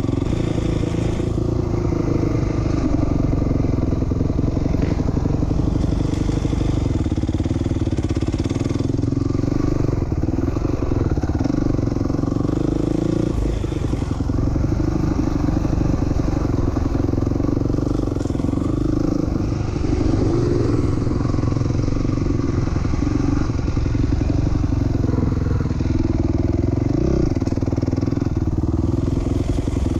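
2007 450R four-stroke motocross bike's engine running hard while being ridden around the track, its pitch rising and falling with the throttle, with a couple of quick revs near the end.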